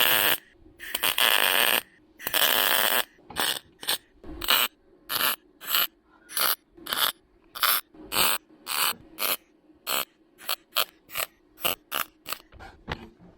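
MIG welder stitch-welding a steel patch: three longer bursts of arc noise in the first three seconds, then a regular run of short pulses, about two a second.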